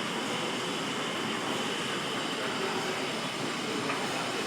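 Ellenroad's large horizontal twin tandem compound steam mill engine running steadily, its crank and flywheel turning with an even, continuous mechanical rush.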